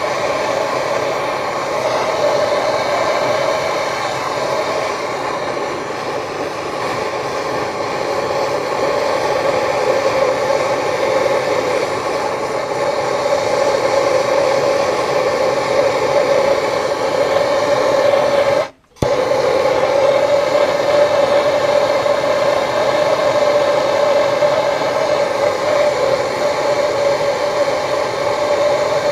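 Torch flame burning steadily, heating a stuck bolt to free it. There is a brief break about two-thirds of the way through.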